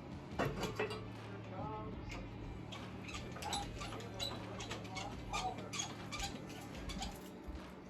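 Irregular runs of small metallic clicks and ticks from hand tools working head bolts into an LS V8 cylinder head, over a steady low hum.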